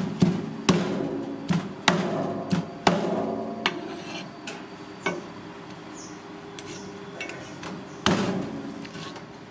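Kitchen utensils striking hard in a series of sharp, irregular knocks, some followed by a brief metallic ring. Most come in the first four seconds, with one more loud knock near the end.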